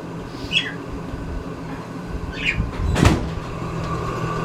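Hampton Bay Chatham ceiling fan running on low with a steady hum, noisy from what the owner's friend calls definitely bad bearings. Two short squeaks, and a single sharp knock about three seconds in.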